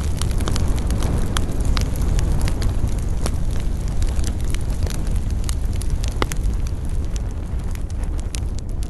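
Campfire burning with a steady low rush and frequent sharp crackles and pops, one louder pop about six seconds in.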